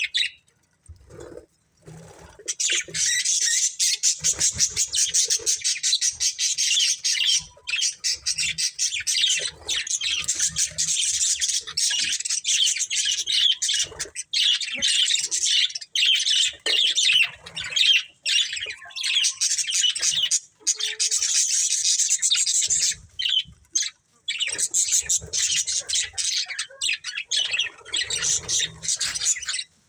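Budgerigars chattering and chirping continuously in rapid, high-pitched calls, starting about two seconds in after a brief lull.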